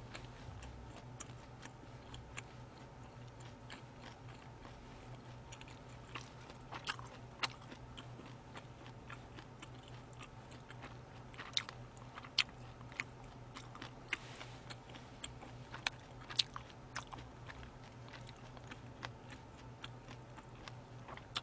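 Close-miked chewing of sushi with the mouth closed: soft, scattered wet mouth clicks and smacks, a few sharper, over a low steady hum.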